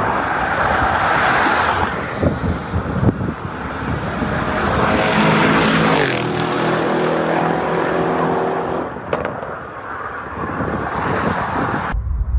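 Fast cars passing by at high revs, the engine noise swelling and falling away with each pass. About halfway through, one engine note climbs and then drops in pitch as the car goes by. Near the end the sound cuts suddenly to a deep low rumble.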